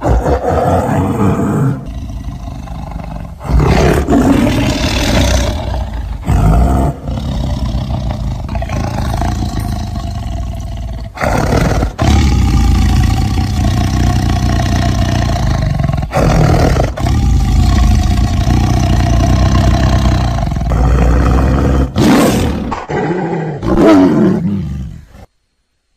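Made-up creature sound effect built from tiger roars mixed with hyena calls: a run of loud roars one after another, with short breaks between them, that stops abruptly shortly before the end.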